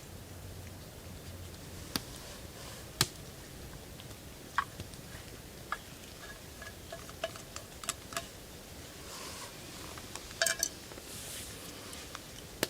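Scattered light clicks and knocks of camp cookware and utensils being handled, about a dozen irregular strikes, some with a brief metallic ring, over a faint steady hiss.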